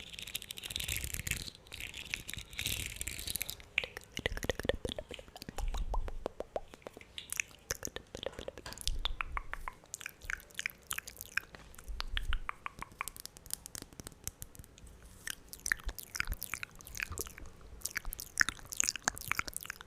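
Close-miked wet mouth sounds: irregular tongue clicks, lip smacks and wet pops. For the first three seconds or so there is a dense hissing rustle.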